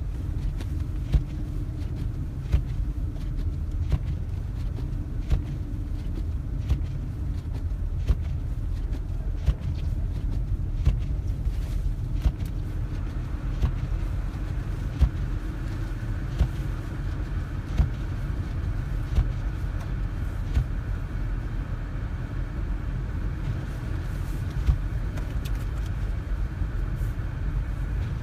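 Inside a car driving slowly on snowy roads: a steady low rumble of engine and tyres, with a sharp knock about every second and a half from the windshield wipers at the end of each sweep.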